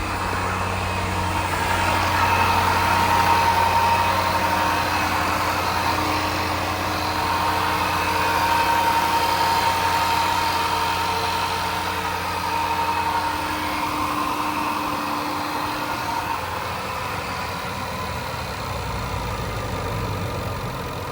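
2016 Range Rover's 5.0 L supercharged V8 running at idle, a steady engine hum with a high, even whine over it.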